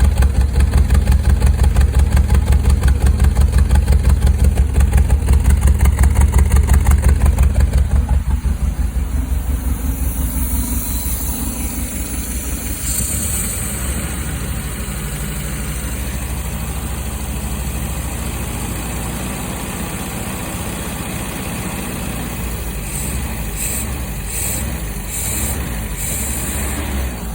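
1974 MGB's 1.8-litre four-cylinder engine running, with a strong, evenly pulsing beat for about the first eight seconds. It then settles into a quieter, steadier idle. A few short hissy bursts come near the end.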